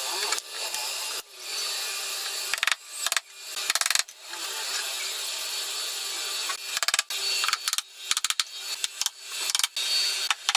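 Handheld power tool run in stretches of a few seconds, stopping and starting again, then in short on-off bursts with clicks near the end, as when driving screws into wood.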